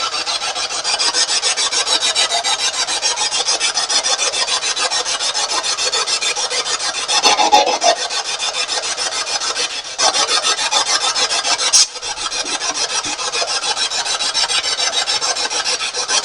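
Spirit box sweeping rapidly through radio stations: static hiss chopped into a fast, even stutter, with brief fragments of broadcast sound breaking through.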